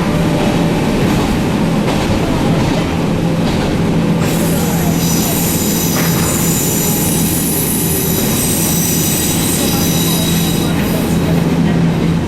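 Echizen Railway train running on the line, with a steady rumble and a low hum. About four seconds in, a high-pitched wheel squeal sets in and holds for several seconds before fading near the end.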